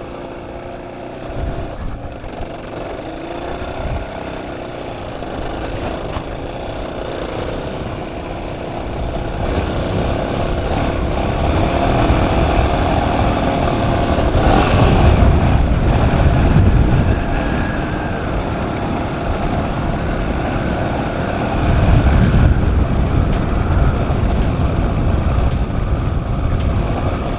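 Suzuki DR650's single-cylinder four-stroke engine running as the motorcycle is ridden, its note swelling louder around the middle and again later on.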